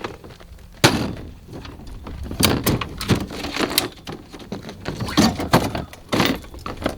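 A series of irregular knocks and clunks, the first and loudest about a second in, then a cluster of sharper ones and a few more near the end.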